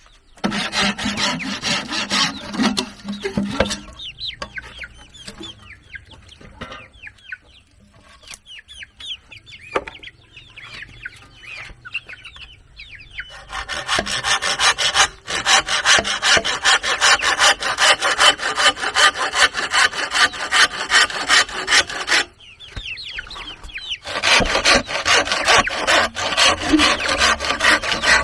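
Hand saw cutting wood in bouts of rapid back-and-forth strokes. There is a pause of several seconds early on, and a short break about three-quarters through. During the long pause, chickens cluck and small birds chirp.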